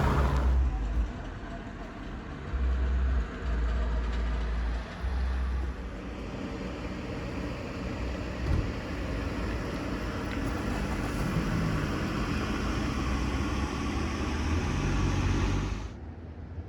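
Car driving along a road: steady road and tyre noise, with several low rumbling surges of wind buffeting the microphone. The sound drops off suddenly shortly before the end.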